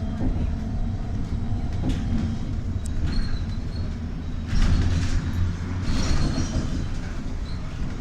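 Trolleybus running, heard from inside: a steady low rumble with louder rattling jolts about halfway through and again a second later.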